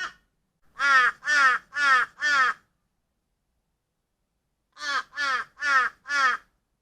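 A crow cawing: four caws in quick succession, a pause of about two seconds, then four more.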